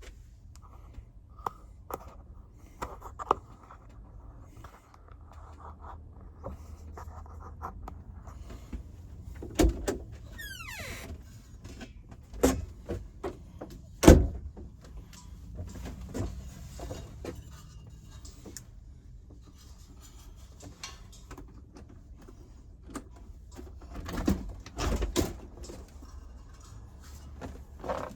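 Clicks, knocks and thumps of doors and things being handled, with a short rising scrape about eleven seconds in and the loudest bang a few seconds later, over a low steady hum.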